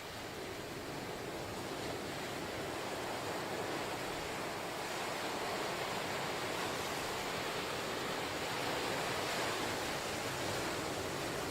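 Ocean surf washing on the shore, a steady hiss of breaking waves that swells gradually over the first few seconds.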